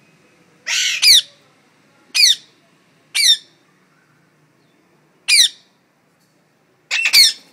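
Pet parrot squawking: about six short, harsh calls, each falling in pitch, spaced a second or two apart.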